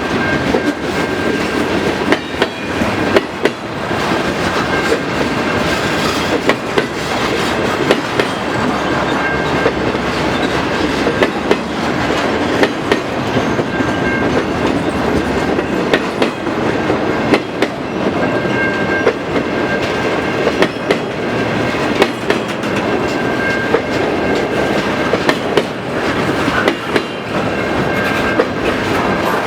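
Freight cars of a slow-moving manifest train rolling past, with wheels clacking and knocking unevenly over the rail joints. A thin high squeal comes and goes.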